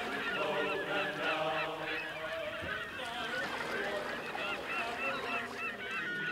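A flock of birds calling, many short calls overlapping continuously; near the end a long held tone comes in.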